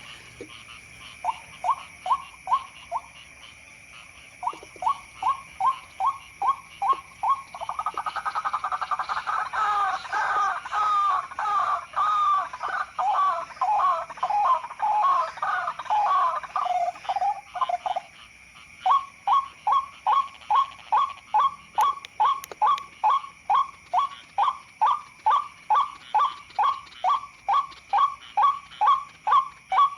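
White-breasted waterhen (ruak-ruak) calls: short notes repeated about two to three a second, thickening into a dense overlapping run of calls for about ten seconds in the middle before returning to the steady repeated notes. A steady high-pitched hum runs behind.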